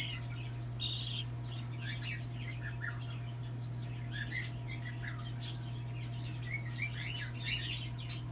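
Young hand-raised bird chirping: many short, quick, high chirps in loose runs. A steady low hum runs beneath.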